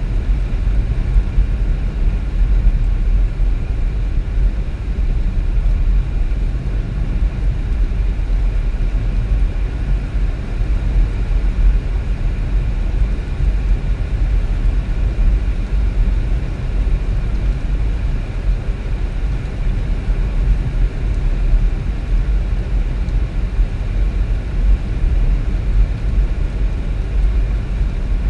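A car driving on a road: a steady low rumble of engine and tyres.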